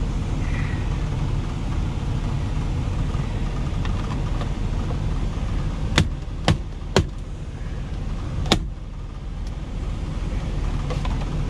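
Steady low rumble of a semi-truck's diesel engine idling, heard inside the cab. About halfway in come four sharp knocks: three half a second apart, then one more a second and a half later.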